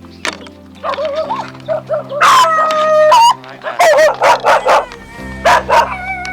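A dog barking repeatedly in short, loud calls over background music.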